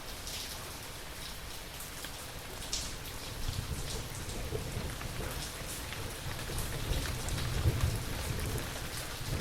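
Steady rain with scattered drops pattering, and a low rumble of thunder that builds about a third of the way in and swells near the end.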